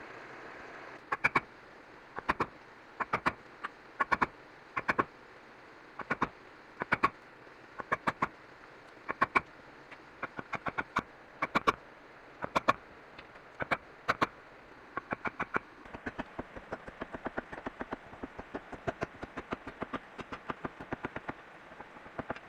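Repeated sharp strikes, mostly in pairs about once a second, turning to quicker, lighter strikes about two-thirds of the way through.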